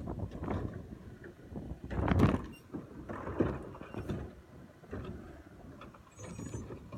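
Garbage truck at work: low engine rumble with irregular clunks and bangs, the loudest about two seconds in.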